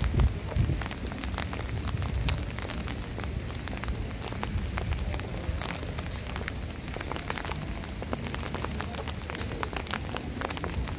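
Rain falling on a wet street: a steady hiss scattered with many sharp drop ticks, over a low rumble.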